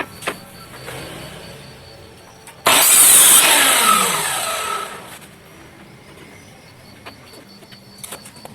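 An electric power tool starts suddenly and runs loudly for about two seconds, then its pitch falls steadily as it winds down and fades. A few light clicks come before it.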